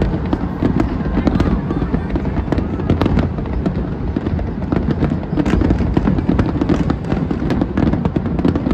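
A dense barrage of aerial firework shells bursting in quick succession: a continuous rumble of booms with many sharp cracks and crackles on top.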